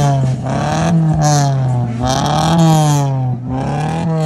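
A car engine running hard, its pitch rising and falling a little about once a second as the throttle is blipped.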